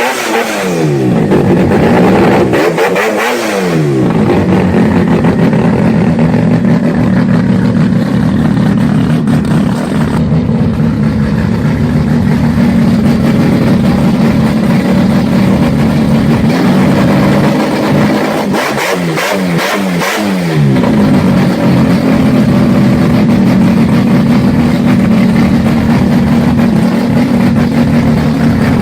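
A motor vehicle's engine running loudly, with its pitch dipping and climbing back as it is revved near the start and again about two-thirds of the way through.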